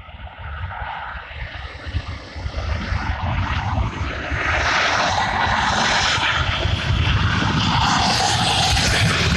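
Airbus A321-231 airliner's twin IAE V2500 jet engines, a deep rumble with a rushing roar, swelling over the first five seconds as the jet nears and then holding loud.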